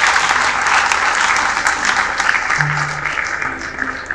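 Audience applauding, dying away over the last second or two, over background music with a few low sustained notes.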